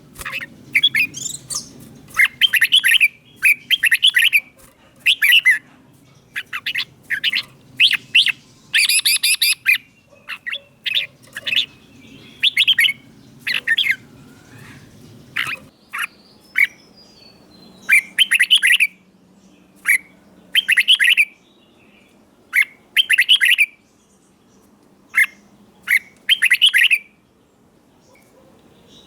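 Red-whiskered bulbul singing: short, bright, warbling phrases repeated every second or two with brief pauses between them, over a faint low hum.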